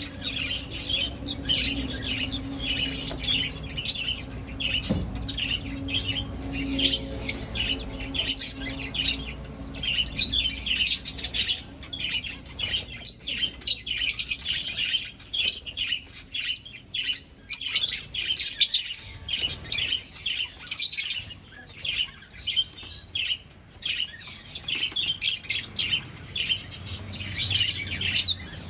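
A flock of aviary finches chirping, many short high calls overlapping in a dense, unbroken stream.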